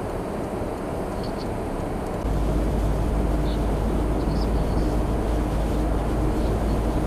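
Steady low rumble of vehicle and road noise, stepping up suddenly to a louder, deeper rumble about two seconds in.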